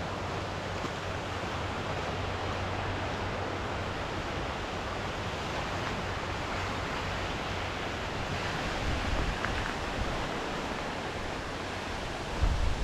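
Steady rushing of sea surf and wind. Near the end, wind starts buffeting the microphone in low rumbles.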